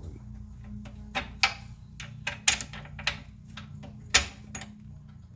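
Steel steering parts and hand tools clinking and knocking together, about half a dozen sharp clanks, as a keyed washer and the pitman arm are fitted onto the steering box stud. A steady low hum runs underneath.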